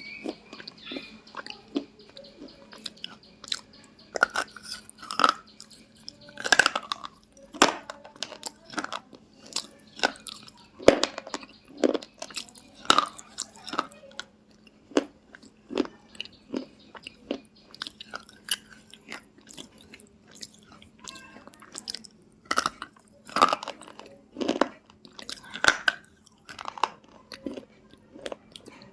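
Close-up chewing of crisp food: sharp crunches come irregularly, about one or two a second, over a faint steady hum.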